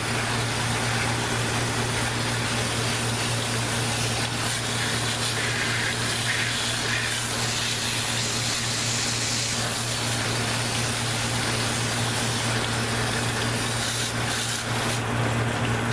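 Steady spray of water hosing down a dirty air-conditioner evaporator coil, over a constant low hum from a pump motor; the spray eases off near the end.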